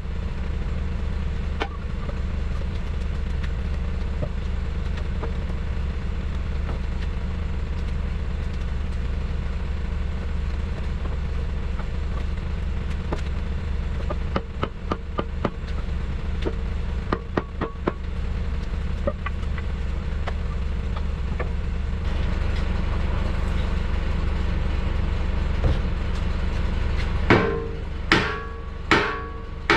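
Steady low mechanical hum with scattered clicks and taps of tools on metal. Near the end a hammer strikes steel about four times, and each blow rings.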